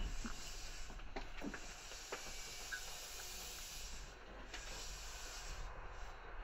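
Faint, steady hiss inside a 211-series electric train, with a few light clicks about one to two seconds in.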